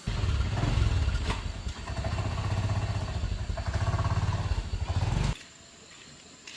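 Small motorcycle engine running with a fast, even beat, cutting off suddenly after about five seconds.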